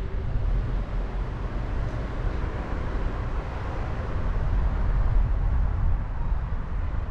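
Driving noise picked up by a camera on a car roof: a low, uneven wind rumble on the microphone over road and traffic noise.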